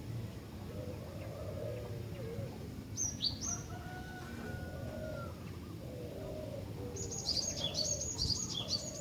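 Female cinereous tit (glatik batu) calling: a quick pair of high, falling chirps about three seconds in, then a rapid run of high chirps near the end, over steady background noise with lower wavering tones.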